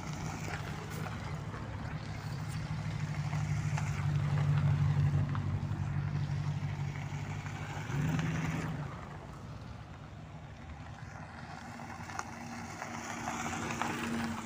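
A red C3 Chevrolet Corvette's V8 running as the car rolls past on a gravel road, its low engine note swelling to its loudest about four to five seconds in. An abrupt change comes about eight seconds in, after which another car's engine is quieter and builds again near the end as a blue Ford Mustang convertible passes close by.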